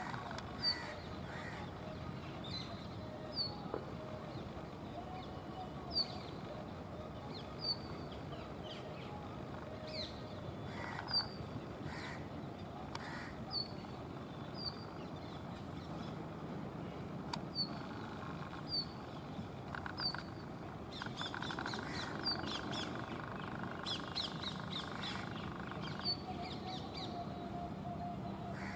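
Brown rock chat calling: a short, sharp, down-slurred note repeated about every second or so, with a run of quicker, denser chattering notes about three quarters of the way through.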